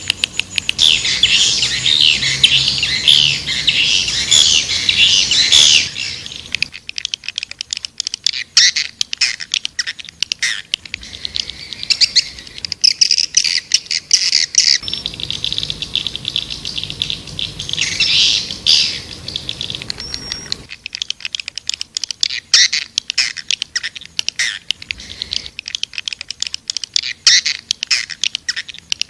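Swiftlet call recording: a dense chorus of swiftlets' rapid, high chirps and twitters. It is thickest at the start and again about halfway through, and thins to scattered chirps in between and near the end.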